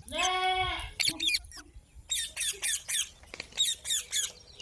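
Green parrot calling: one drawn-out harsh squawk at the start, then several clusters of short, rapid squawks.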